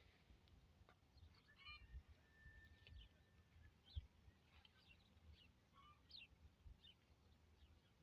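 Faint, scattered bird chirps, with one short held whistle about three seconds in, over a low rumble of wind with a few soft knocks.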